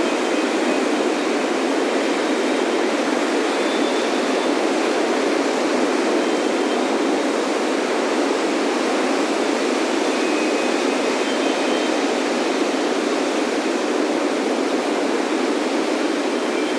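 Ocean surf breaking on a beach, a steady, continuous wash of water with no single wave standing out. Faint, high wind chime tones ring out here and there, near the start, around the middle and again near the end.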